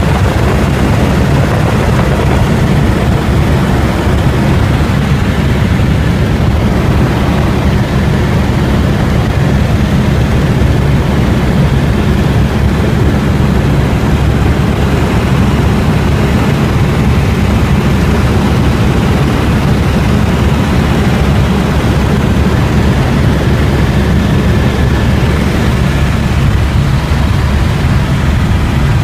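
Helicopter running steadily: a loud, constant low rumble of rotor and engine that does not change.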